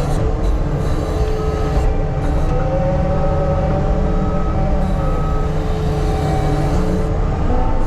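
Earthmoving machine's diesel engine running steadily under work, with a steady whine on top of a heavy low rumble.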